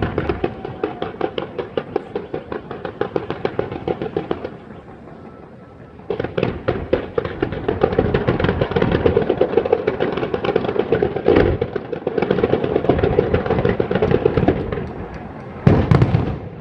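Fireworks crackling and popping in rapid succession, with a short lull about four and a half seconds in, then dense crackling again and a loud bang near the end.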